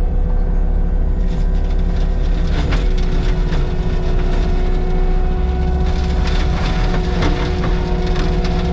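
Heavy diesel land-clearing machinery running steadily under load, a deep rumble with a steady whine, with scattered sharp cracks and snaps of breaking wood and debris.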